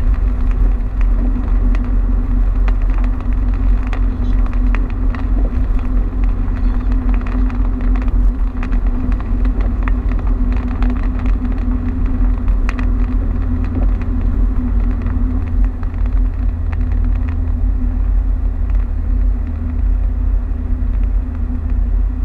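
Car driving on a highway in heavy rain: a steady low road rumble and a constant drone, with scattered ticks of rain striking the car.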